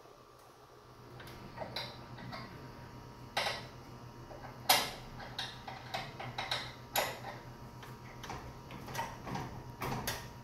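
Irregular metallic clicks and clinks of winding bars and a wrench working a garage door torsion spring, with the loudest clank about halfway through, over a faint steady low hum.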